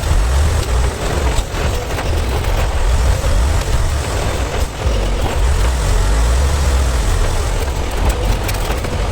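Semi-truck running, a heavy steady low rumble with road and wind noise and a few light knocks over it.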